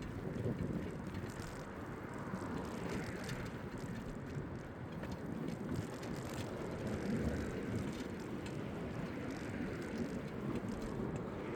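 Steady rumble of a bicycle ride, with tyre noise and wind on the microphone.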